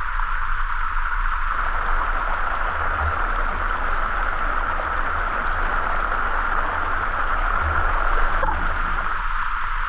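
Waterfall rushing, a steady unbroken noise.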